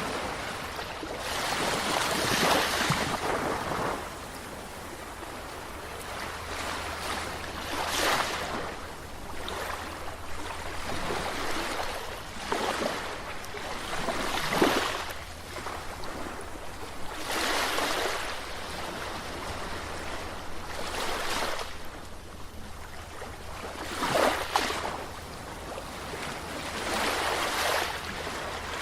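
Sea waves washing in against the shore in repeated surges every three to five seconds. Each surge is a rush of water with sharp splashes, over a steady background hiss of surf.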